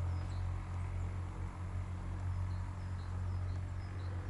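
A small bird gives short, high chirps over and over, about two a second, over a steady low hum.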